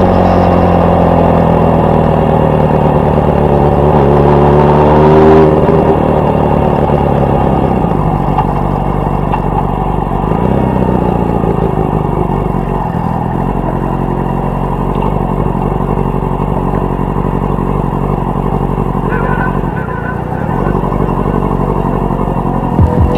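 Yamaha R6 sport bike's inline-four engine running under way, its note rising and falling with the throttle. About five seconds in, the pitch drops sharply.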